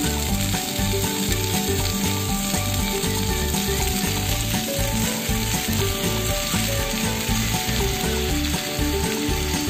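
Chicken pieces sizzling steadily as they fry in a pan, with background music playing underneath.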